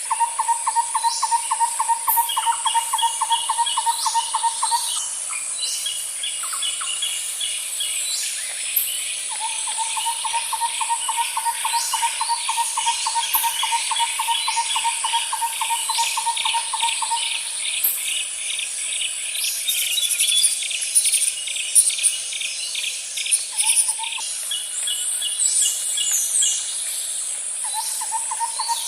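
Nature ambience of birds and insects: a steady high-pitched insect drone, with long rapid low-pitched trills that come back three times, each lasting several seconds, and faster, higher chirping trills over them.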